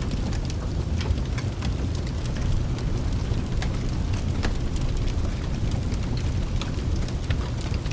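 Rain-and-fireplace ambience: a steady deep rumble of rain and distant thunder, with scattered sharp crackles and pops of a wood fire.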